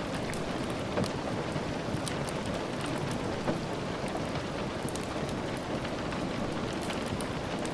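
Steady rain falling, a constant hiss with scattered sharp ticks of drops or crackles.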